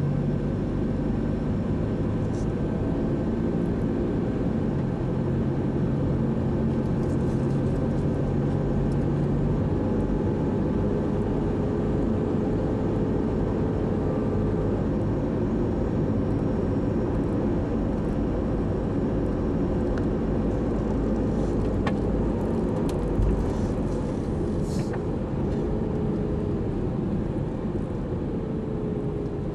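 A car driving at a steady speed: a continuous mix of engine and road noise.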